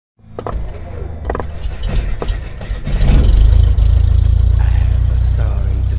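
A loud, steady, engine-like low rumble. A rapid run of clicks and knocks comes in the first few seconds, and the rumble builds to full strength about three seconds in.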